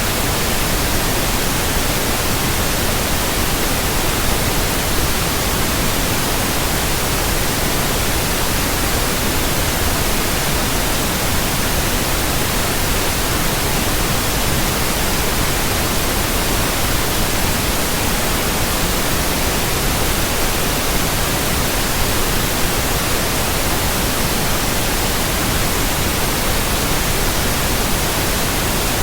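Steady synthetic white noise: an even, unchanging hiss spread across all pitches.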